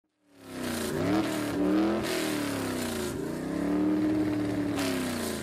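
A car engine revving, its pitch rising and falling several times as the throttle is blipped. It fades in just after the start.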